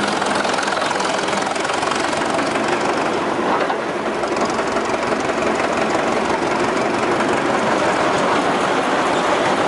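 1926 Northwest 105 dragline running, its Twin City gas engine and machinery giving a loud, steady clatter.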